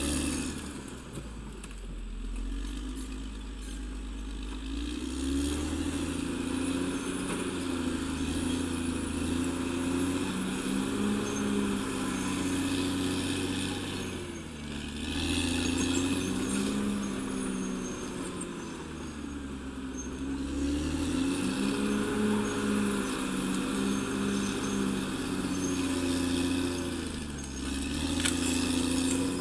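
Caterpillar D6R XL bulldozer's diesel engine working, its pitch rising and falling repeatedly every several seconds.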